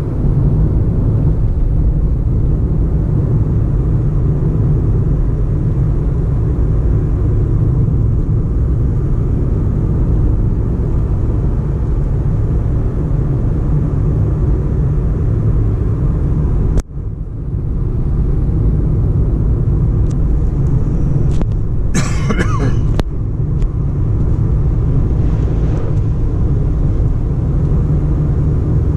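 Steady low rumble of a car driving. It drops out for an instant about two-thirds of the way through, and a short crackling rustle comes soon after.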